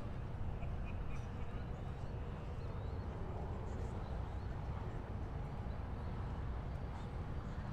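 Outdoor harbour ambience: a steady low rumble of distant city and water traffic, with a few faint high chirps early on.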